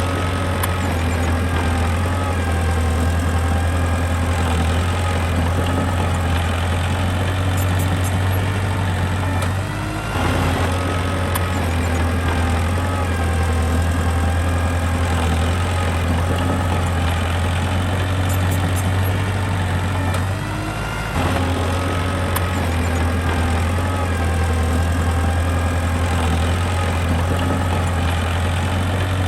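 Diesel engine of earthmoving machinery running steadily with a strong low hum. The engine note dips briefly twice, about a third and two thirds of the way through, then picks back up.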